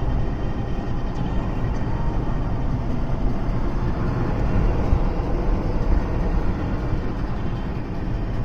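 Steady road noise of a vehicle travelling on a highway: a continuous low rumble of tyres and engine.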